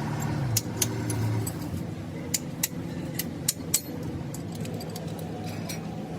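An engine or motor running steadily at a low pitch, with scattered sharp metallic clicks and clinks throughout.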